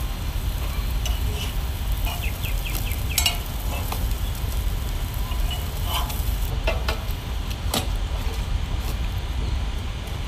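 Crab and prawn omelettes frying on a flat griddle: a steady sizzle with sharp clinks and scrapes of a spatula, over a steady low rumble. The sizzle drops away about six and a half seconds in, leaving a few clicks.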